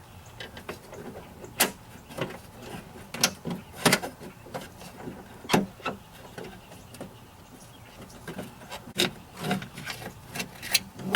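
Irregular clicks and light knocks of a door-latch cable and its plastic fittings being worked by hand inside a pickup's door, with a pause in the middle.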